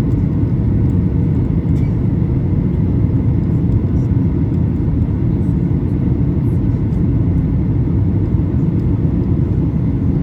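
Steady cabin noise inside a Boeing 737-800: the even rumble of its two CFM56-7B turbofan engines and the rush of air along the fuselage, heard from a window seat.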